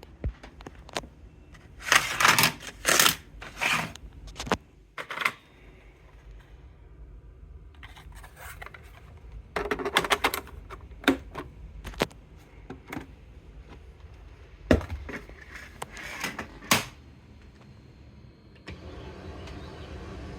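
A series of sharp clicks, knocks and scrapes at irregular intervals, loudest in clusters about two, ten and fifteen seconds in; near the end a steady low rumbling noise sets in.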